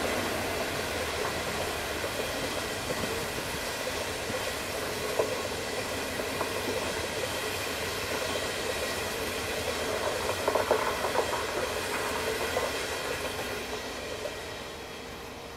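An intercity train's 25T passenger coaches rolling past at speed: a steady rush of wheels on rail, with a few sharp clatters a few seconds in and a burst of them about two thirds through. It fades near the end as the train draws away.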